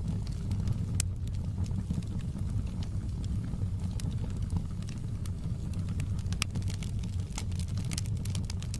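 Wood fire burning in a fireplace: a steady low rumble with scattered sharp crackles and pops, more of them near the end.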